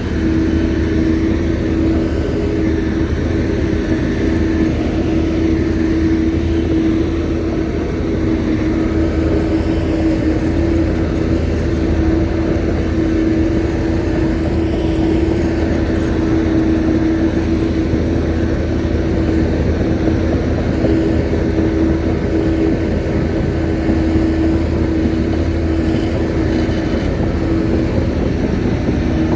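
Shantui bulldozer's diesel engine running steadily under work, with a constant tonal hum over a low rumble.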